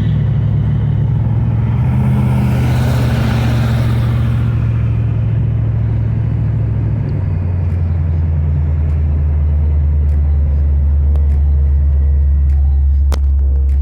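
Car engine running with a deep, steady drone while driving; the engine note drops to a lower pitch about seven seconds in. A rush of noise swells and fades between about two and four seconds in, and there is a single click near the end.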